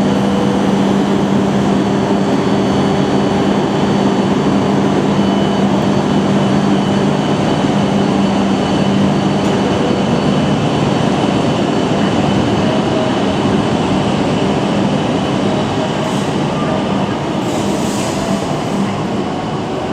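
Tohoku Shinkansen train moving along the station platform: a loud steady rush of running noise with a low hum and thin whistling tones, easing off slowly near the end.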